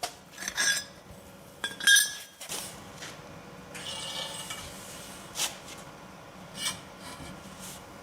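Metal hand tools clinking and knocking as a bigger breaker bar and socket are handled: a few separate sharp clinks, the loudest about two seconds in.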